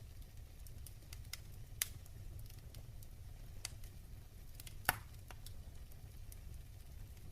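Wood fire burning in a fireplace, crackling with scattered small snaps over a low steady rumble. Two louder pops stand out, one near the start and one past the middle.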